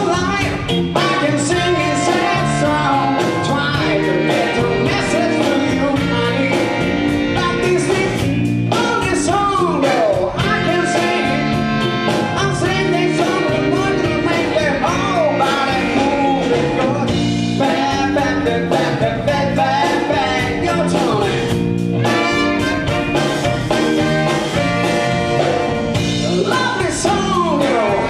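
Live band music with a singing voice over a steady drum beat.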